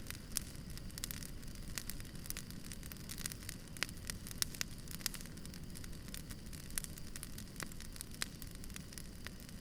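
Wood campfire crackling, with irregular sharp pops and snaps, several a second, over a low steady rumble.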